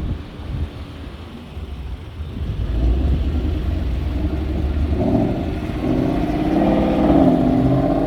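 A car engine revving and accelerating, growing louder from about three seconds in, with its pitch rising and falling in the second half.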